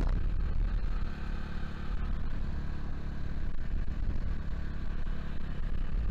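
Vitacci GTX 250 EFI motorcycle engine running steadily, with no revving.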